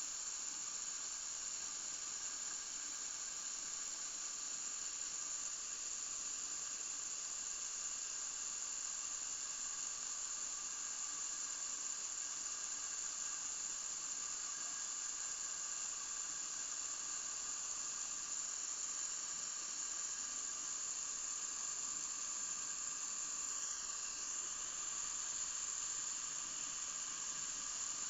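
A continuous high-pitched hiss with several faint steady tones beneath it, unchanging throughout; a short falling sweep about four-fifths of the way through. What makes it is unknown.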